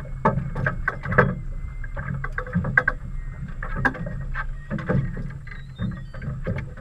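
Water lapping and slapping, with irregular knocks and splashes and a low rumble, like small waves against a boat's hull or the shore.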